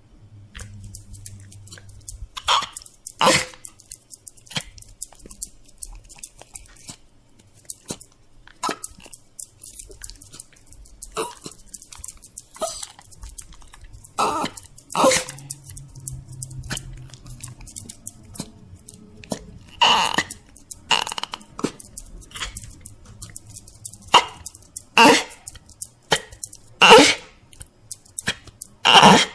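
A dog making short, breathy, noisy vocal sounds, about a dozen of them at irregular intervals and often in pairs, with small clicks between. The loudest come in the last ten seconds.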